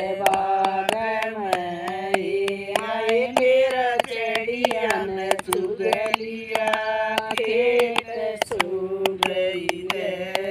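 Voices singing a Hindi folk devotional bhajan in a chant-like melody, over a quick, steady beat of sharp percussive clicks.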